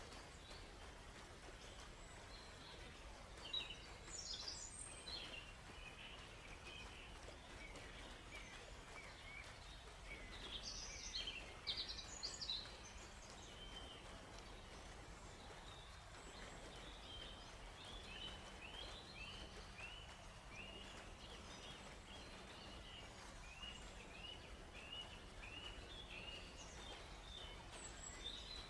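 Songbirds chirping and calling over a faint, steady background hiss, with busier song about ten seconds in. In the second half comes a long run of short repeated notes.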